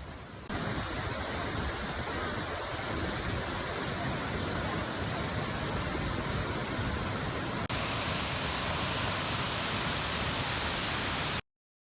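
Steady rush of flowing water, a river or waterfall heard close to the microphone, with a slight change in tone about eight seconds in and a sudden stop near the end.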